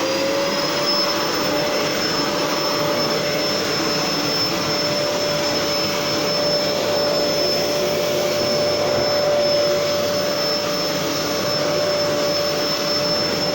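Gerer8 Power MAX 2000W vacuum cleaner running at full power with a steady, high motor whine over the rush of suction, its pitch settling just after the start as the motor finishes spinning up. It is being pushed back and forth over carpet.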